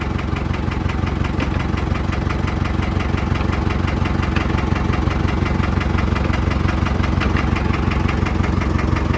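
Diesel truck engine idling steadily with an even, fast ticking beat, driving a hydraulic winch off its power steering pump.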